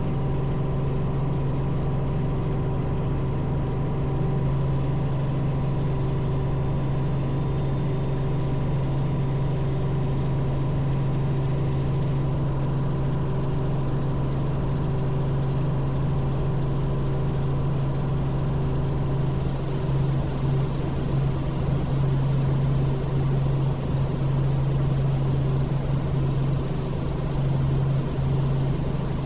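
Robinson R44 helicopter's piston engine and rotors running steadily, heard as a constant low drone with a few steady higher tones, wavering slightly in loudness in the second half.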